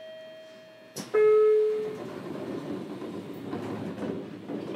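A steady pitched tone, then a sharp knock about a second in. A short, loud horn blast follows, and then the running noise of the JR Kyushu 303 series EMU builds as it moves off.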